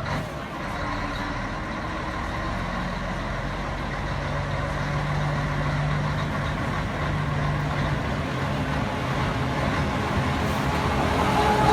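Scania 113 truck's 11-litre straight-six diesel engine running with a deep exhaust rumble, growing gradually louder.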